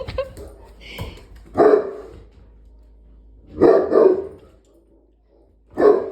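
Dog barking in play: repeated deep barks, the loudest coming about every two seconds.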